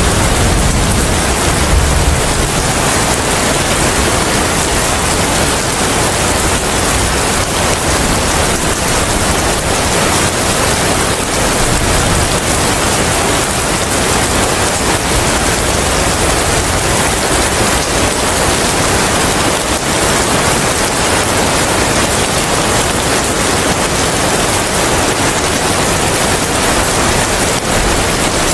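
Steady, dense rain with wind, an even hiss. A low rumble fades out over the first two seconds.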